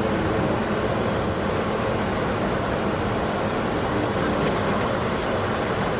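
Engines of a group of police motorcycles running steadily together.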